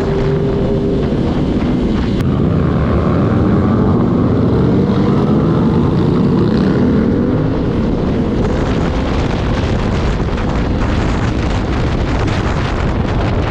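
Yamaha R3 motorcycle with an aftermarket full-system exhaust, riding along, its parallel-twin engine note rising and falling with the throttle, under heavy wind noise on the microphone.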